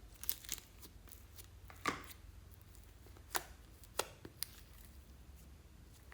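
Slime being handled and pressed, giving about six sharp, irregular clicks and pops.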